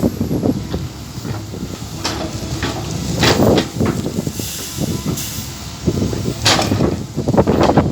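Backhoe working, its engine running under load, with two loud hissing surges about three and six and a half seconds in.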